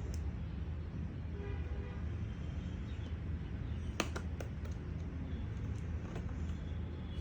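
Steady low street-traffic rumble with a faint car horn toot, and a few sharp clicks about four seconds in.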